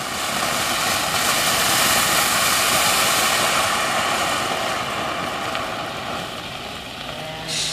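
Ground fountain firework spraying sparks with a steady rushing hiss that swells over the first couple of seconds and then slowly dies down.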